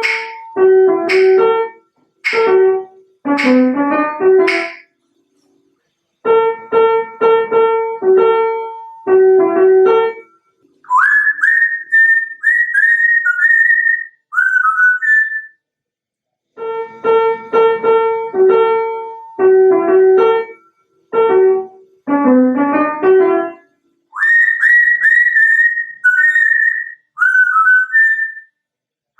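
An African grey parrot whistling short rising phrases, alternating with short runs of piano-like keyboard notes: two rounds of notes, then whistles.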